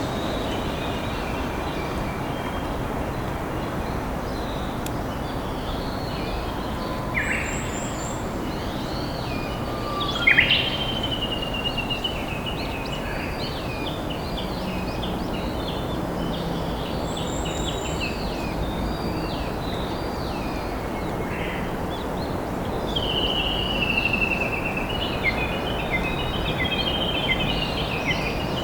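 A river flowing steadily, with several wild songbirds singing and chirping over it; the loudest calls come about a third of the way in, and a longer run of song follows near the end.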